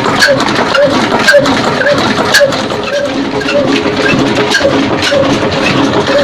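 Old 22 hp diesel engine running steadily, with an even beat of about four exhaust beats a second and sharp ticks riding on it.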